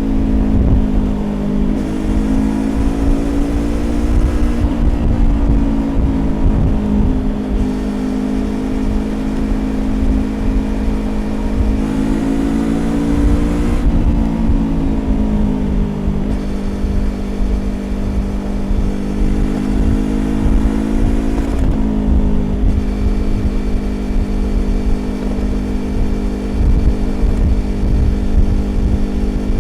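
Yamaha YZF-R25's parallel-twin engine through a Prunus aftermarket exhaust, riding at expressway speed. Its pitch rises and falls with the throttle, drops sharply about halfway through and dips again later. Steady wind and road rumble lie underneath.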